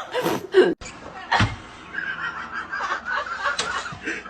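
A person laughing, cut off abruptly within the first second, then a single thump and quieter background sound.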